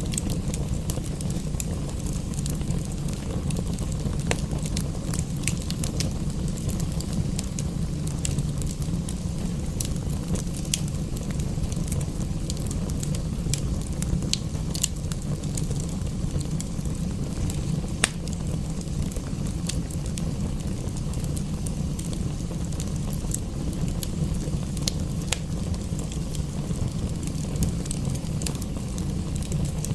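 Wood fire in a fireplace crackling, with frequent sharp pops over a steady low rumble; one pop about halfway through is louder than the rest.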